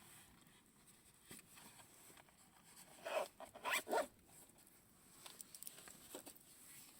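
Campfire burning with scattered faint crackles. About three seconds in, a second-long cluster of short rasping bursts.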